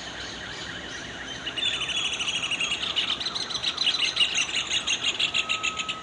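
Small birds chirping in fast repeated notes, several a second. The chirping grows louder and higher about a second and a half in.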